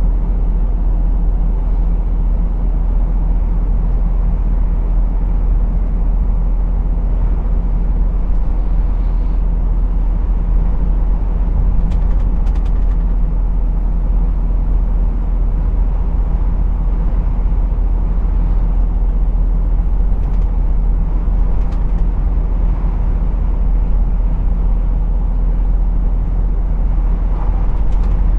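Lorry engine running at a steady low drone with road noise while driving, with a few brief clicks.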